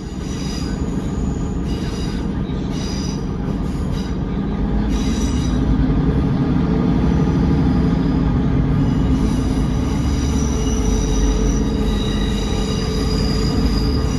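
British Rail Class 150/1 diesel multiple unit running, heard on board. A steady low rumble of engine and running gear grows louder about a third of the way in. High-pitched wheel squeal comes and goes over it and is most sustained in the second half.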